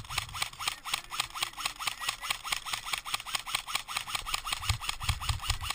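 Airsoft electric gun firing on full auto, a steady rapid string of shots at about ten a second with the gearbox whirring on each cycle.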